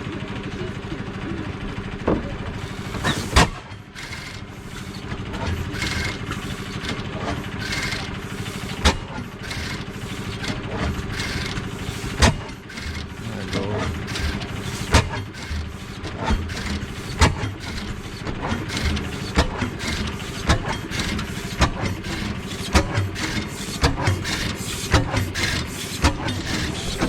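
Antique engine running steadily, with sharp pops at uneven intervals; a loud bang about three seconds in, and the pops come more often near the end.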